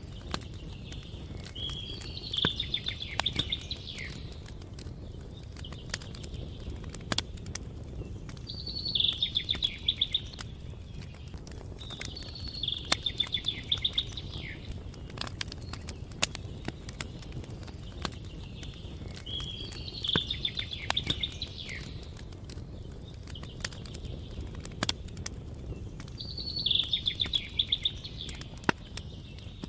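A songbird sings the same short trilled phrase five times, several seconds apart, over the irregular crackle and pops of a wood fire. A low steady rumble runs underneath.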